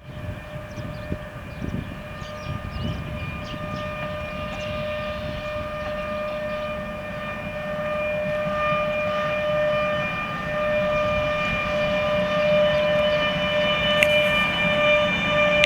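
2ES6 electric locomotive hauling a freight train: a steady high whine over a low rumble, both growing louder as the train approaches.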